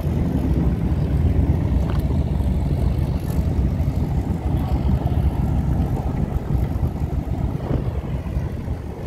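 Low, steady rumble of car engines running as show cars start up to leave.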